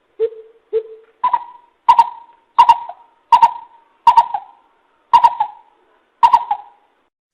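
Greater coucal calling: a series of nine deep notes, the first two lower, the rest higher and spaced about a second apart.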